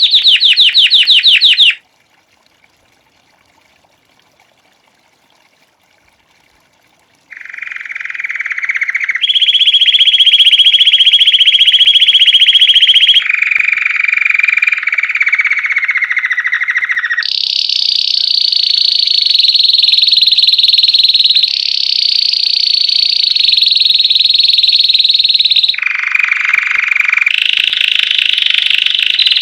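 Belgian canary singing in the classic campainha style: long runs of rapid trilled notes, each run held at one pitch for a few seconds before switching to another. A trill breaks off about two seconds in, there are about five seconds of near silence, and then the song resumes and carries on.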